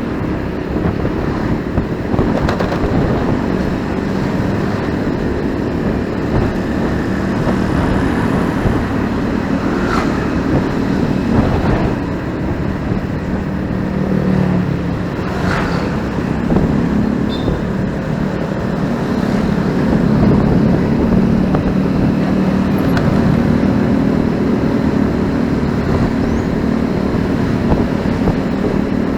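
Street traffic heard from a moving motorcycle: the bike's engine running steadily under road noise, with the cars and motorbikes around it.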